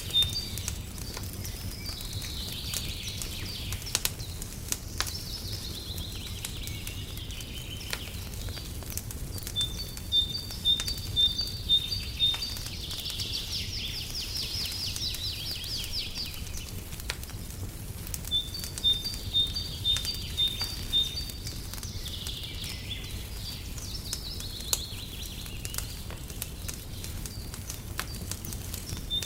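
Birdsong repeating about every nine seconds: a run of evenly spaced high piping notes followed by a warbling trill. Under it a fireplace crackles with scattered sharp pops over a steady low rumble.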